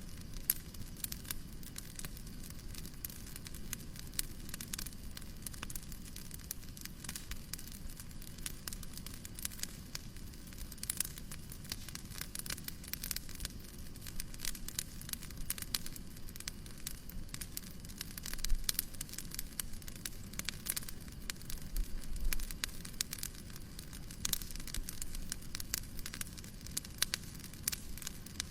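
Wood fire crackling in a fireplace: many irregular pops and snaps, a few louder ones, over a steady soft hiss.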